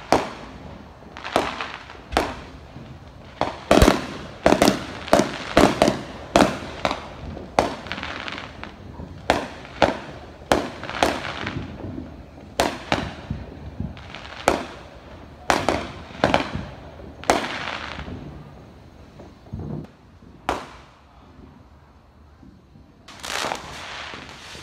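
Fireworks going off: a quick, uneven run of sharp bangs, each trailing a short echo. The bangs thin out after about 18 seconds, then a longer burst comes near the end.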